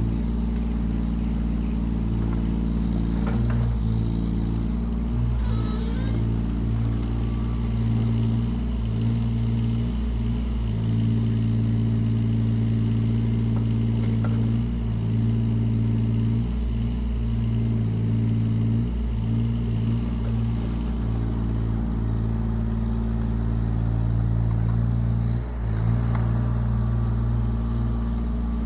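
Yanmar ViO17 mini excavator's small three-cylinder diesel engine running steadily, with brief dips in engine pitch and a few faint knocks.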